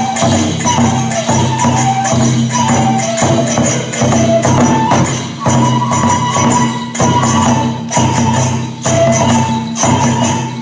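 Kagura music: a transverse bamboo flute plays a stepping melody over regular taiko drum strikes and the bright jangling clash of small hand cymbals.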